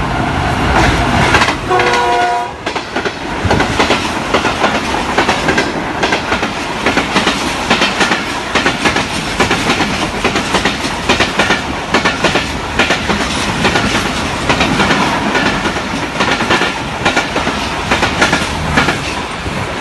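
Pakistan Railways GEU-40 diesel-electric locomotive hauling a passenger express through the station at speed, with a brief horn blast about two seconds in. After the horn, the coaches rush past with a continuous clatter of wheels over rail joints.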